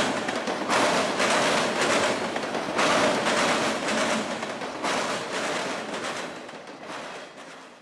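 Freight train of autorack cars rolling past on steel rails, the wheels clattering in surges about once a second. The clatter fades away over the last few seconds as the train recedes, then cuts off abruptly.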